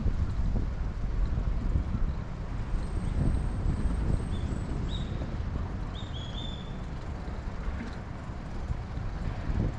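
Steady low rumble of city traffic and wind on the microphone during a bicycle ride, with a string of short, high chirps in the middle.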